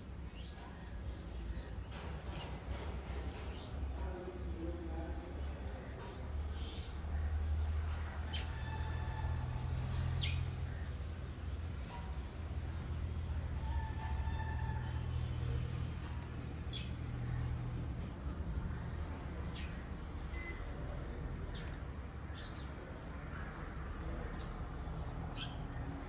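Small birds calling from the balcony beams: a short, high, down-curving call repeated about once a second or so, mixed with scattered quick chirps. A steady low rumble runs underneath and swells in the middle.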